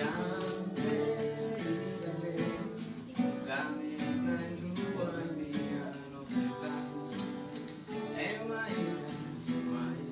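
Music played on acoustic guitar, plucked and strummed notes.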